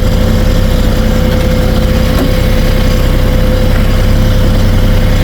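Kioti 3520HST compact tractor's diesel engine running steadily while the tractor travels in medium range, a constant low drone with a thin, steady high whine over it.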